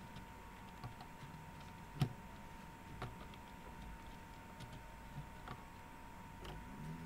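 Light clicks and knocks of plastic toy pieces being handled and set in place, the sharpest about two seconds in, over a faint steady tone.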